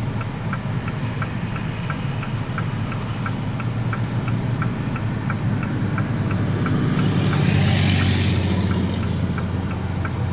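A vehicle idles with a low hum while a steady ticking repeats nearly three times a second. A rushing noise swells and fades from about seven to nine seconds in.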